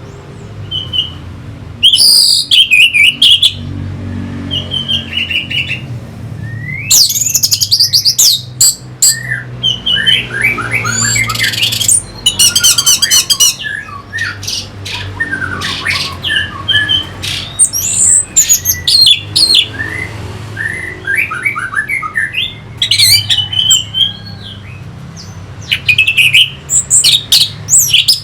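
Orange-headed thrush singing: a string of loud, varied phrases of quick squeaky notes and trills, each a second or two long, with short pauses between them, over a faint low hum.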